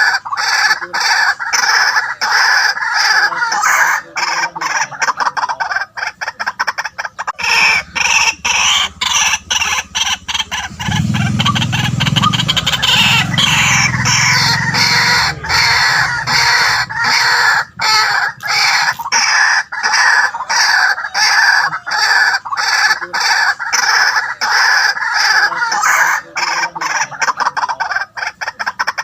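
White-breasted waterhen calling: loud, rapidly repeated croaking notes that run on without a break, a recording of the kind played as a lure for waterhens.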